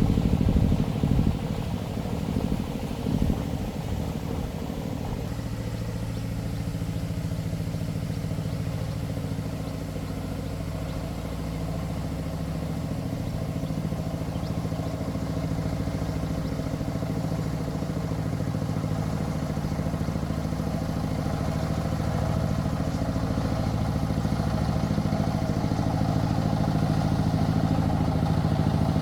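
Single-cylinder diesel engine of a công nông farm truck running, uneven for the first few seconds and then settling into a steady idle.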